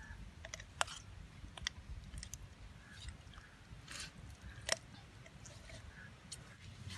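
Knife scoring a raw whole chicken: faint wet cuts and scattered clicks, with two sharper clicks about a second in and about two-thirds of the way through, over a low steady rumble.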